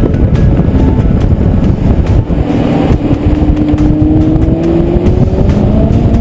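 Maserati GranTurismo MC Stradale's 4.7-litre V8 engine and exhaust under load, the engine note rising steadily for a few seconds as the car accelerates, over a heavy low rumble.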